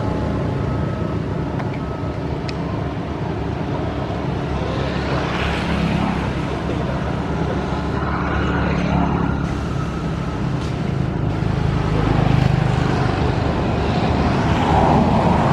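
An engine running steadily: a continuous low drone with a noisy wash above it.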